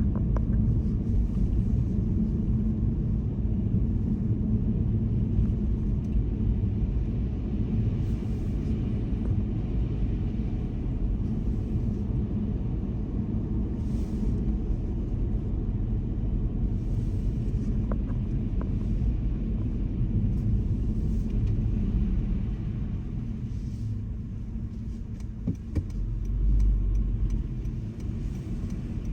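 Car driving on a snowy road: a steady low rumble of engine and tyres, with a brief louder swell of low rumble near the end.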